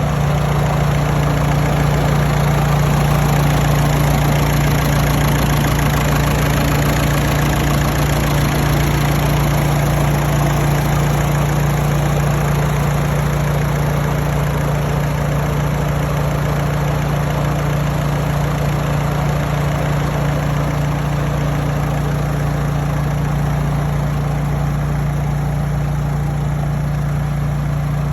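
Volkswagen diesel engine idling steadily during a hydrogen decarbonising treatment, which is meant to burn off the carbon deposits that made it fail the exhaust-smoke emissions test.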